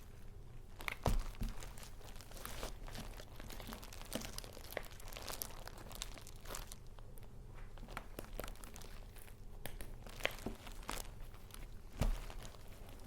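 Paper crinkling and rustling as paper goods are handled, with two louder soft knocks, one about a second in and one near the end.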